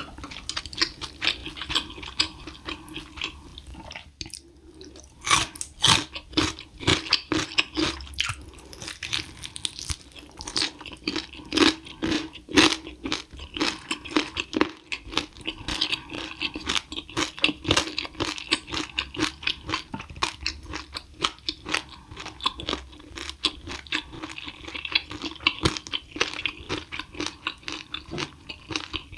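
Close-miked eating sounds: a person biting and chewing crunchy food, a dense run of loud, irregular crunches, with a brief quieter spell about four seconds in.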